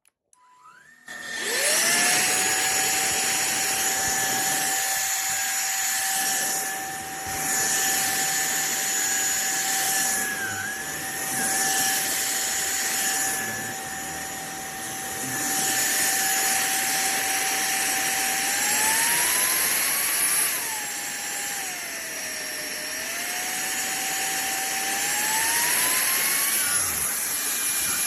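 SunSare cordless stick vacuum cleaner switched on, its motor spinning up within about a second to a steady high whine with a rushing hiss, the level swelling and dipping every few seconds. About two-thirds through, the motor's pitch rises, drops and rises again as its suction power changes.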